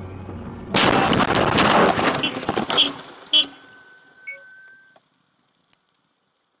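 Dash-camera recording of a car collision: steady engine and road noise, then a loud crash lasting about two seconds, a sharp knock, and a short steady tone that fades before the audio cuts to silence.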